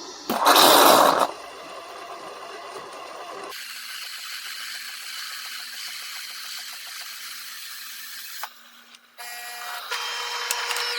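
De'Longhi Magnifica Start automatic espresso machine working through a cappuccino cycle. There is a loud burst of motor noise about a second in, then a steady hiss for several seconds, and a buzzing hum with a steady pitch near the end.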